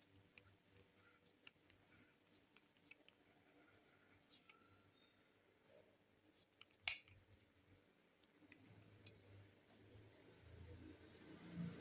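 Faint scratching and scattered ticks of a pen or pencil drawing on paper, with one sharper click about seven seconds in.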